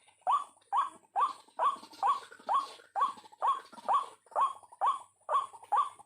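White-breasted waterhen calling: a harsh rising note repeated steadily, about twice a second.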